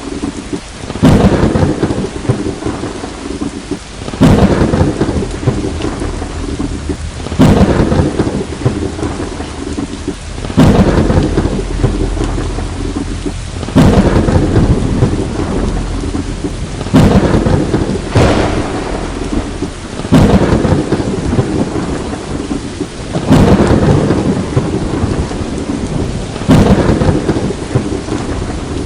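Steady heavy rain with thunder cracking about every three seconds, each crack dying away into a low rumble.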